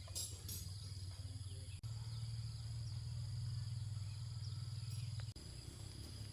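Insects droning steadily with high, even tones, over a low rumble that cuts off abruptly twice.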